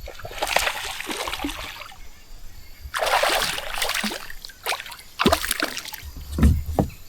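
Hooked smallmouth bass splashing at the water's surface during the fight, in two longer bursts, followed by several short sharp knocks.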